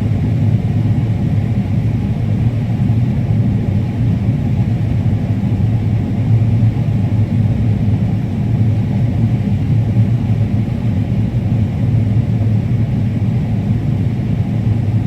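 Combine harvester running steadily while harvesting corn, a continuous low drone with no change in speed.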